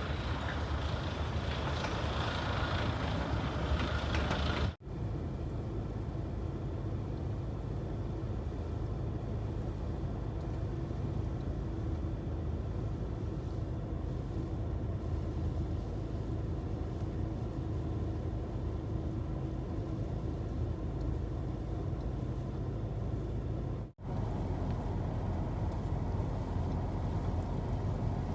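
Steady low rumble of a motor vehicle running, breaking off for an instant twice.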